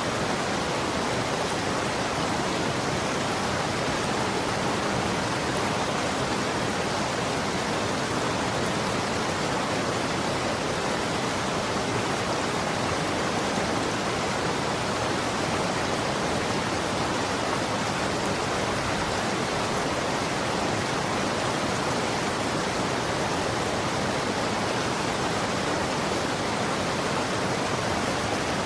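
Running water flowing steadily, a constant even rush with no separate splashes or changes.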